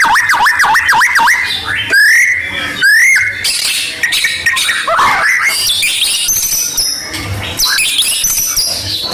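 White-rumped shama (murai batu) song used as a lure recording. It opens with a fast run of repeated swooping notes for about the first second, then rising whistles and a dense jumble of high, varied phrases.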